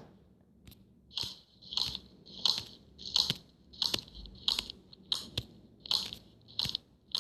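Crunchy, squishy slime sound effects from a slime-making game, repeating evenly about every two-thirds of a second.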